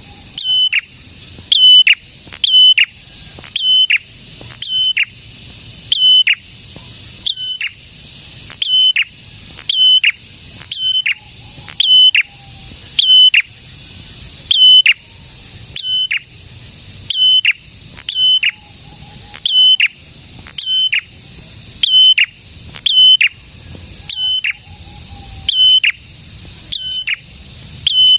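A prenjak calling one sharp, high note over and over, about once a second in a steady rhythm. Each note snaps down in pitch at its end.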